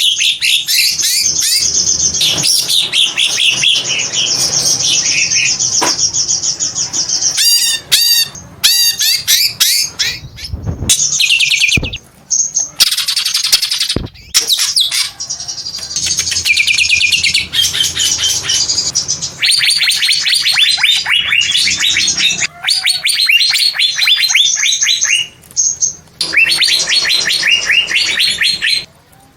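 Green leafbird (cucak ijo) singing loudly: long runs of rapid, high repeated notes and trills, broken by a few short pauses.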